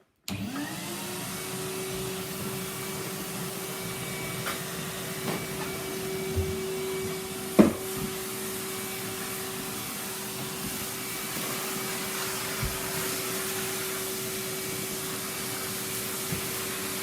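Numatic Henry canister vacuum cleaner switched on, its motor spinning up with a rising whine and then running steadily. A sharp clatter about seven and a half seconds in is the loudest moment, with a few smaller clicks.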